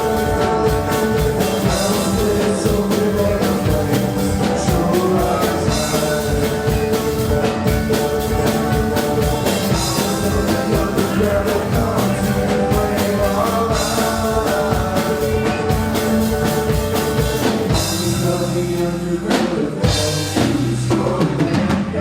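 Live rock band playing loudly: drum kit, distorted guitars and bass, with vocals. Near the end the steady groove breaks into held, ringing chords punctuated by a few hard hits, as the song winds down.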